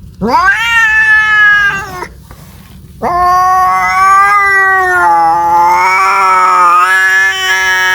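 Domestic cat yowling: a call of about two seconds that rises and falls, then a long drawn-out yowl from about three seconds in, wavering in pitch.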